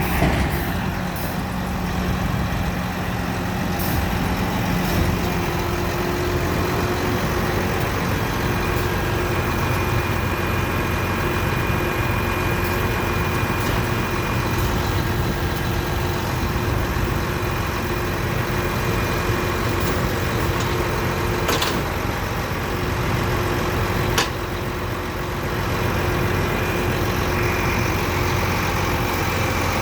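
Truck engine idling steadily, with two short sharp knocks a few seconds apart past the middle.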